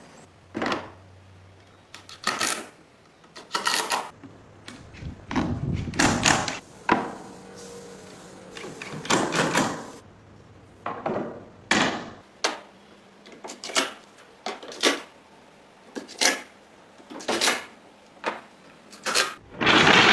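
Hand tools working wood: a string of separate knocks and short scraping strokes, roughly one a second.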